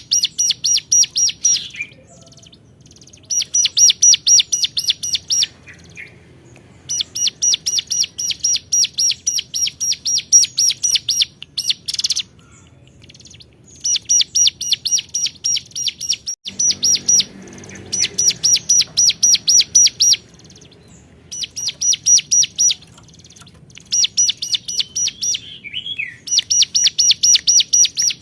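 Hill prinia (ciblek gunung) singing in vigorous, repeated phrases of rapid, evenly spaced sharp 'cuap' notes, about five or six a second. Each phrase lasts two to three seconds, with short pauses between.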